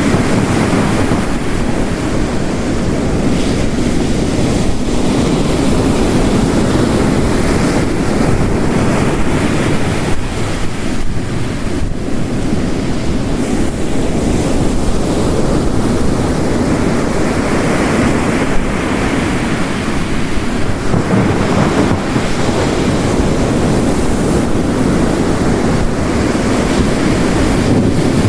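Storm ambience of ocean waves crashing on a coast mixed with heavy rain, a dense steady wash of water noise. The surf eases slightly about halfway through, then swells again.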